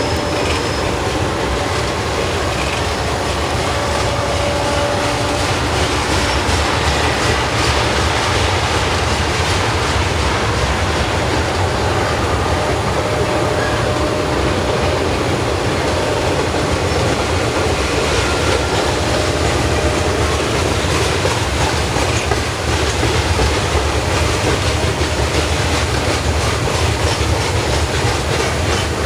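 Freight cars of a Norfolk Southern mixed freight train rolling past, with a steady loud rumble and wheel clatter. Faint high squeals, likely from the wheels, fade out about six seconds in.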